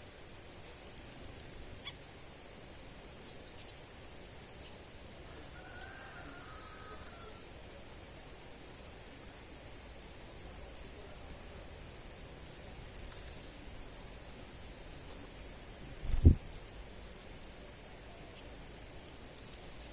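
Wild birds giving short, high-pitched chirps at irregular intervals over a steady background hiss, with a single low thump about sixteen seconds in.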